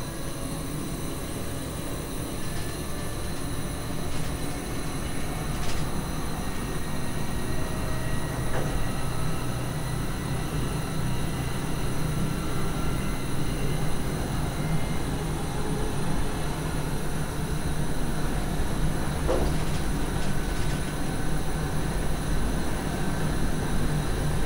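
Cab noise of an NS SGM Sprinter electric multiple unit running along the track: a steady low rumble with faint whines, one slowly rising in pitch. It grows louder over the first few seconds, and a few light clicks come through.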